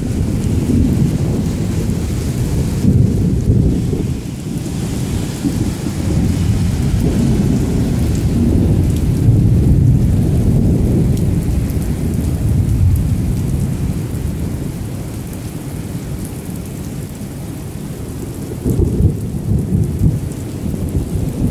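Thunder rumbling on and off over heavy rain, with the loudest rolls about three, nine and nineteen seconds in.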